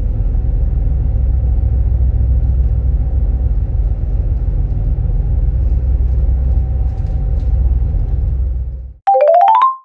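Steady low engine rumble heard from inside a moving vehicle, which cuts off suddenly near the end. It is followed by a short rising run of electronic chime notes, like the signal that comes before a public-address announcement.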